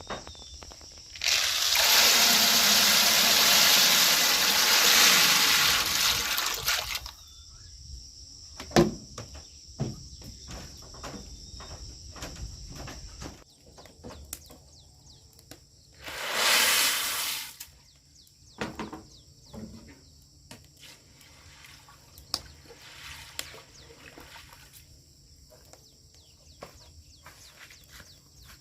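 Water pouring or splashing in two spells: a long one of about six seconds near the start and a shorter one around the middle, with knocks and clatter of handling in between. Insects chirp steadily in the background.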